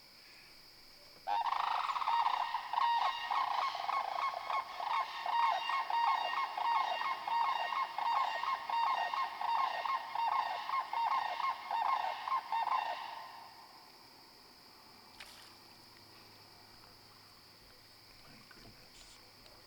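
Swan calling, a long run of honks at about two or three a second that starts about a second in and stops after some twelve seconds; by its sound it is taken for a trumpeter swan.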